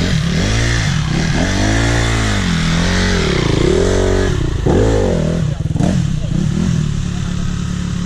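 Trail motorcycle engine revved up and down about five times, then settling back to a steady idle near the end. The bike has just been coaxed back to life after water got into its carburettor and airbox in a river crossing, and it tends to stall.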